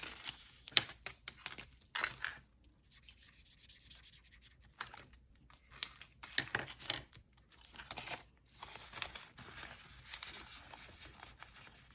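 Paper banknotes and cash envelopes being handled: irregular rustling and crinkling in short bursts, with a few light clicks.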